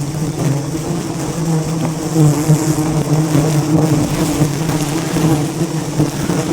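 A swarm of bees buzzing in a steady, wavering drone.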